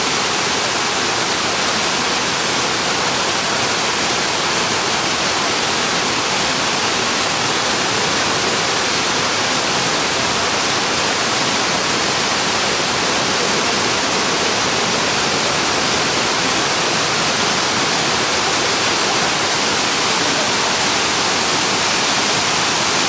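Waterfall: a steady, even rush of falling water, a loud unbroken hiss with most of its weight in the higher range.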